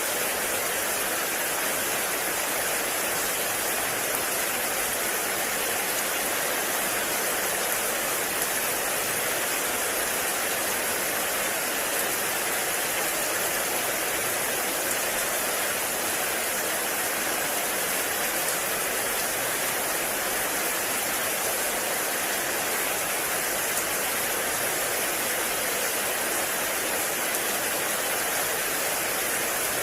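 Heavy rain falling steadily in a forest, a dense even hiss without breaks.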